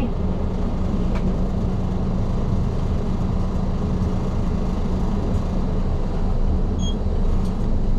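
Isuzu Erga city bus running along the road, heard inside the cabin: a steady engine drone and road rumble with a constant low hum. A short faint beep sounds about seven seconds in.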